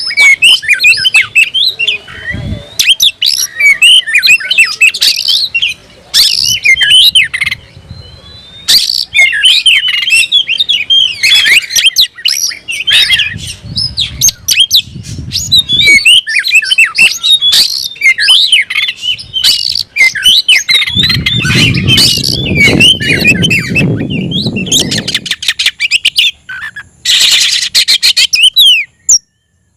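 Oriental magpie-robin (kacer) singing continuously: a fast, varied stream of sweet whistles mixed with harsh, scratchy notes, ending in a run of rapid buzzy notes. About two-thirds of the way through, a low rumble sits under the song for a few seconds.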